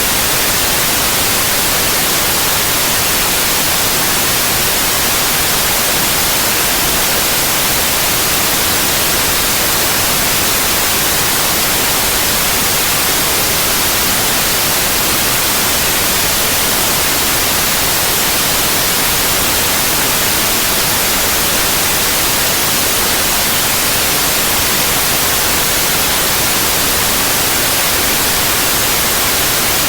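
Steady, loud white noise: an even hiss across the whole range, with no change or break.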